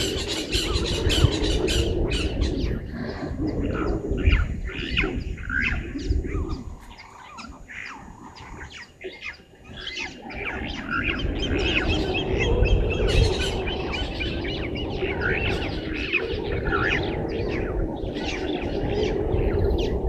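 Wild birds calling in bush, many short squawks and chirps at irregular intervals, over a steady low rumble that fades for a few seconds midway.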